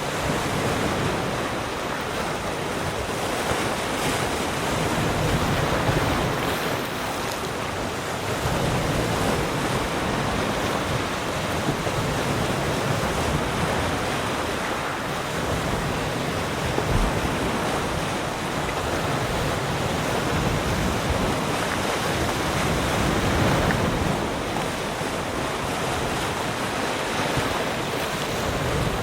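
Sea surf: waves breaking and washing on the shore in a steady rush that swells and eases every few seconds.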